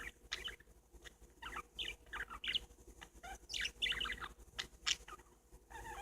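Pet parakeets chirping and chattering in short, quick, irregular bursts, with scattered small clicks between them.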